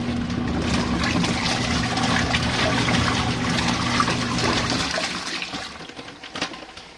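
Compact washing machine agitating a medium load of warm water: a steady motor hum with water sloshing and splashing. About five seconds in the motor stops and the swirling water dies down, a pause before the agitator turns the other way.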